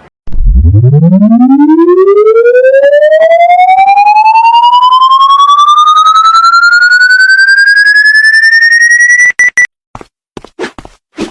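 A loud siren-like tone winding up, rising steadily from a deep hum to a high whine over about nine seconds, then cutting off abruptly. A few short knocks follow near the end.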